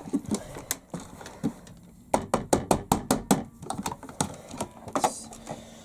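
Plastic toy washing machine being tipped and shaken so its loosened case screws rattle and drop out, a string of sharp clicks and knocks with a quick run of about ten near the middle.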